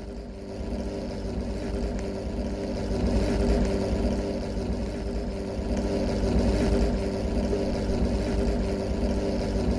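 Car engine running at a steady speed: a low rumble with an even hum, growing louder over the first three seconds and then holding level.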